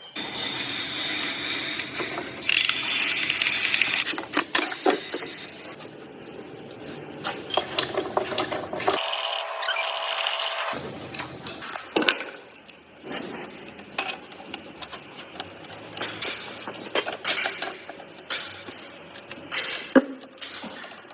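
Workshop clatter of engine assembly: tools and metal parts clicking and knocking, with stretches of steadier higher-pitched noise near the start and again around the middle.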